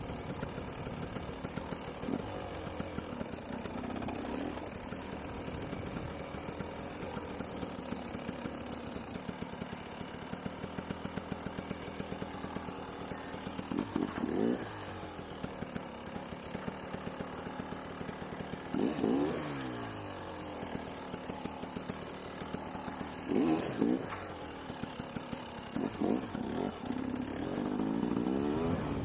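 Dirt bike engine running at low speed, picking its way along, with four short bursts of throttle in the second half where the engine revs up and drops back.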